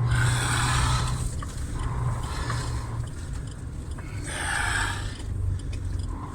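Lorry engine running steadily, heard from inside the cab, with two short spells of hissing noise, one at the start and one about four and a half seconds in.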